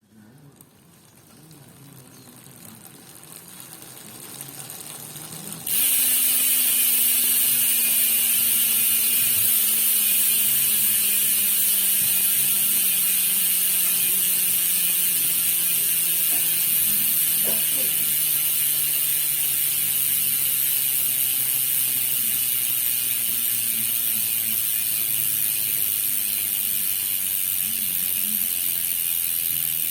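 Koozer CX420 bicycle hub's freehub pawls buzzing as the wheel freewheels. Faint and building at first, it jumps to a loud, fast, steady buzz about six seconds in, then slowly drops in pitch as the wheel coasts down.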